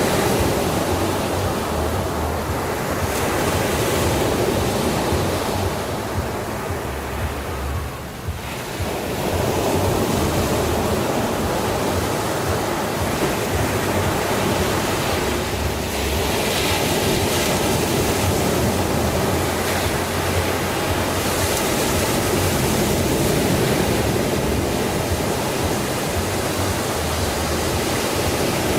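Sea waves washing on a shore, a continuous surf rush that eases briefly about eight seconds in and then swells back up.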